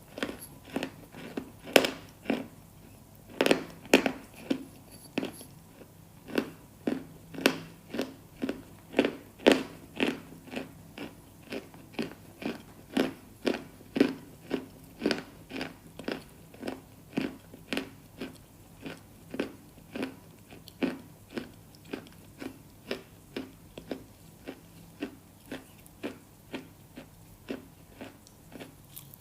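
Close-miked crunching of a hard, brittle food being bitten and chewed, in a steady rhythm of about two crunches a second.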